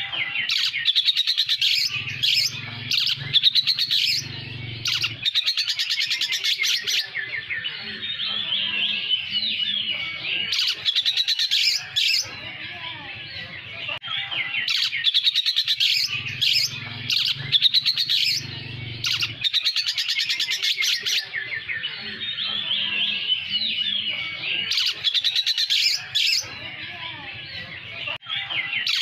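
Oriental magpie-robin (kacer poci) singing continuously: fast, chattering phrases of trills and rapid sharp notes, filled with lovebird-like chatter it has learned to mimic, broken by short pauses.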